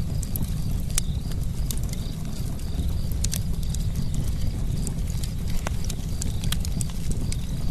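Campfire burning with a steady low rumble and irregular sharp crackles and pops from the burning wood.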